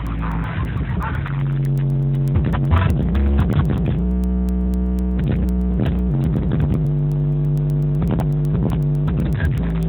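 Car engine running steadily, its pitch rising and falling as it is revved several times.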